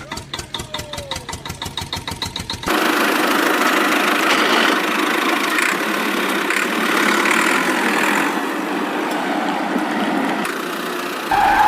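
Engine sound. It chugs in a steady rhythm of about six beats a second, then cuts abruptly, a few seconds in, to a steadier, thinner running noise without bass. Near the end the deeper engine sound returns.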